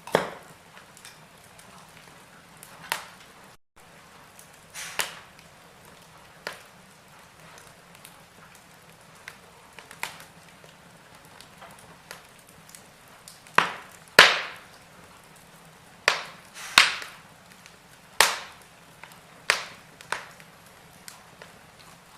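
Wood fire in a fireplace crackling: sharp, irregular pops and snaps over a low steady hiss, with the loudest pops bunched together in the second half.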